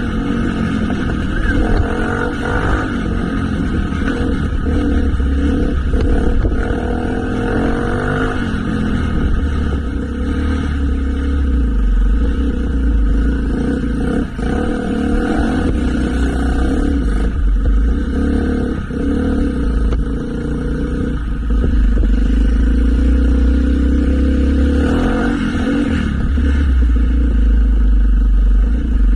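Motorcycle engine running while riding, with the engine note rising and falling in the first several seconds and a steady low rumble throughout.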